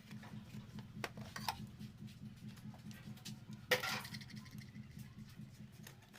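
A few light knocks, then one sharp metallic clink with a short ring, like hard tools or metal parts knocking together, over steady background music.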